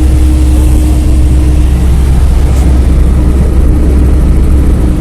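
Car driving, heard from inside the cabin: a loud, steady low rumble of road and engine noise.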